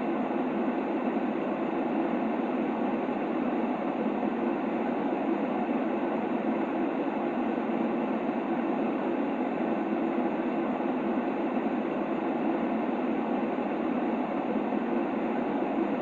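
Steady white-noise sleep sound for a baby: an even, unchanging rushing hiss, fuller in the low middle and soft in the highs.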